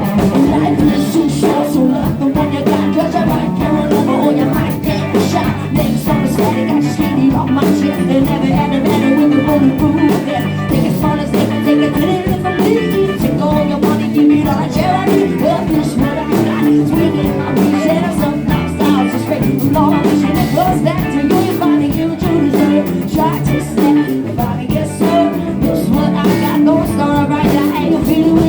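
Live rock band playing: guitars, bass and drum kit in a steady groove, with singing.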